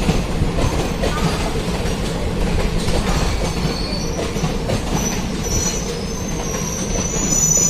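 Passenger train rolling on the track with a steady rumble and wheel clatter; thin, high wheel squeal sets in about four seconds in and grows toward the end.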